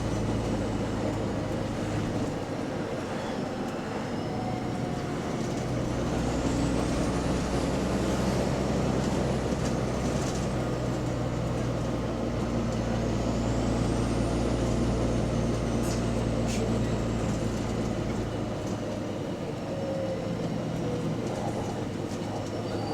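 Double-decker bus engine running on the move, heard from inside the bus, with an exhaust leak. A high whine rises and falls twice as the bus gets under way.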